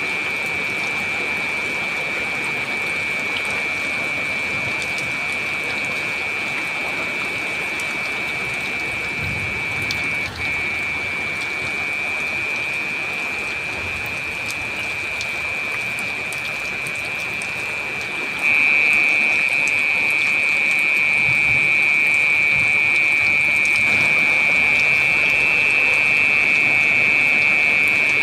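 Steady heavy rain, with a constant high-pitched drone running over it. The sound jumps abruptly louder about eighteen seconds in.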